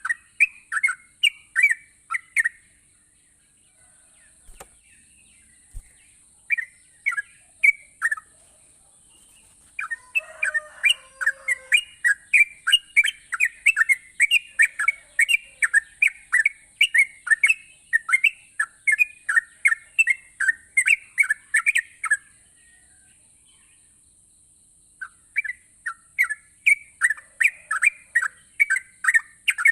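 Yellow-vented bulbul (trucukan) singing: rapid runs of short chirps, about four a second, in bursts with pauses between them, the longest run lasting about twelve seconds. A steady faint high hiss runs underneath.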